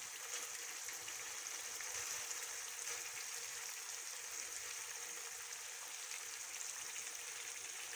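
Mutton karahi sizzling in oil in a wok on a high flame, its tomato and yogurt liquid cooked off: a steady, even hiss.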